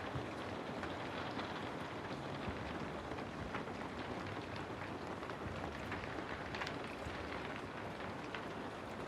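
Steady rain falling, with many sharp drop ticks scattered through the even hiss.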